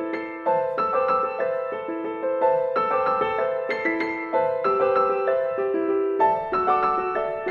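Soft piano music: quick, gently struck notes forming a flowing figure that repeats about every two seconds.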